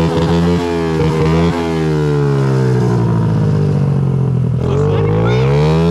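Honda CRF50's small single-cylinder four-stroke engine running. Its revs fall away over a few seconds, then rise again near the end.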